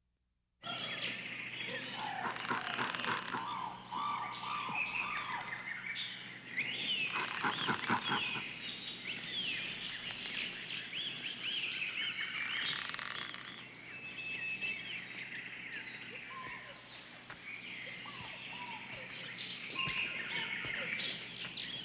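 Rainforest ambience: many overlapping bird calls and frog chirps with short rapid trills over a steady high tone, starting abruptly under a second in.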